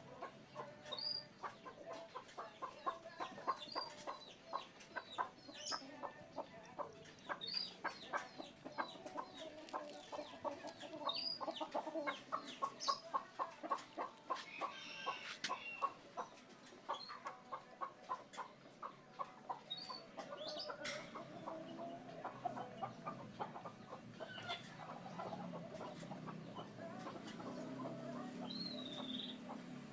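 Animal clucking in quick runs of short calls, several a second, with a few short high chirps between them.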